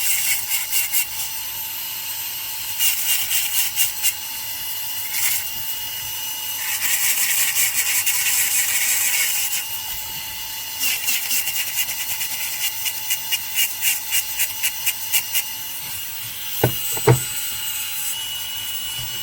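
Dental handpiece running with a fine finishing bur on an amalgam filling under water cooling and light pressure: a steady thin whine with repeated spells of rapid scratchy chatter as the bur grinds the amalgam surface. Two low knocks sound near the end.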